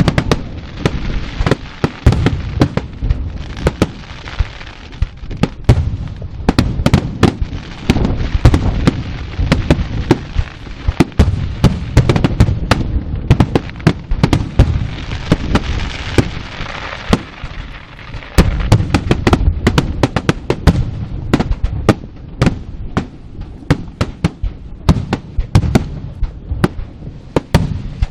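Fireworks and firecrackers going off in a dense, continuous barrage: rapid irregular bangs over a steady crackle.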